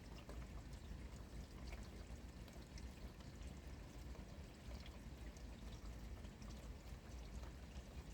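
Steady rain falling, with a continuous wash and scattered small drop ticks.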